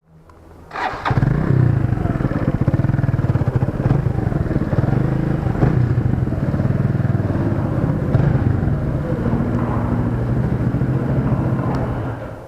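Motorcycle engine running steadily, starting about a second in; its exhaust pipe has a large hole that is due to be welded.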